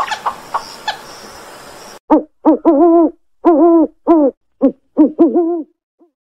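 Eagle-owl hooting: a run of about eight deep calls of uneven length, some short and some drawn out, starting about two seconds in. Before them, a quick clicking rattle fades away.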